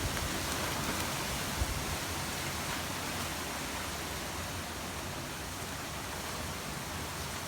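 Steady gusty wind from a hurricane's outer band, rushing over the microphone, with one brief low buffet about a second and a half in.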